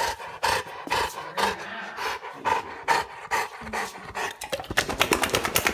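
A dog panting in short rhythmic breaths, about two a second at first, quickening to several a second near the end.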